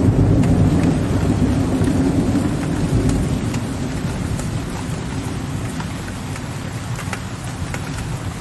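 Steady rain with sharp drops tapping on a window ledge, over a low rumble of distant thunder that fades away over the first few seconds.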